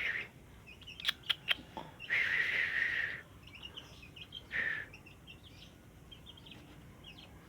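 Sooty-headed bulbul calling: a few sharp clicks about a second in, then a scratchy call lasting about a second, a shorter one a little later, and faint short chirps between.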